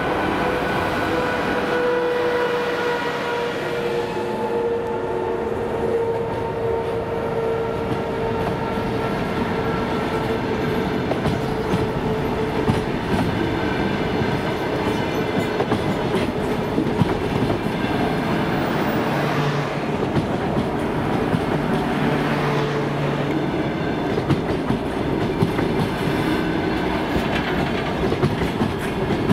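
Passenger coaches of a departing train rolling past at low speed, wheels clacking over rail joints with occasional sharper knocks. A steady electric whine from the EP2K DC electric locomotive ahead sounds over it and fades in the second half as the locomotive pulls away.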